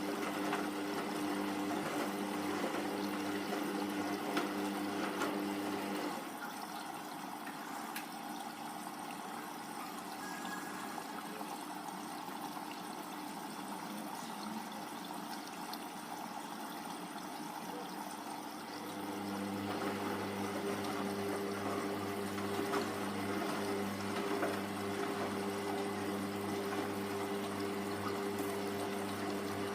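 Hoover Vision Tech washing machine during its wash: the drum motor hums steadily, stops about six seconds in, and starts again about nineteen seconds in, with water sloshing throughout. The stop-and-restart is the drum's tumble-and-pause cycle of the wash.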